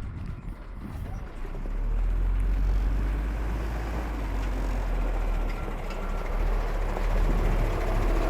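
8.3-litre Cummins turbo diesel of a BMY M931A2 5-ton military truck running with a steady low rumble, which grows louder about a second and a half in.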